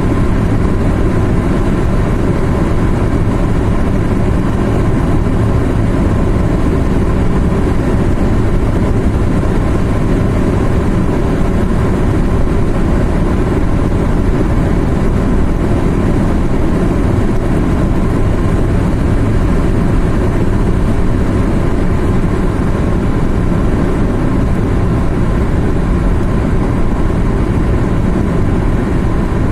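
A car driving steadily along a road, its engine and tyre noise a constant low rumble that does not change.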